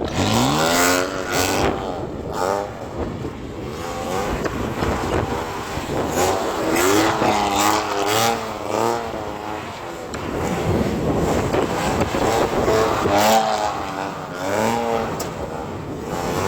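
Straight-piped BMW E92 328i inline-six engine revving hard under throttle while drifting. It climbs sharply right at the start, then rises and falls again and again as the throttle is worked on and off.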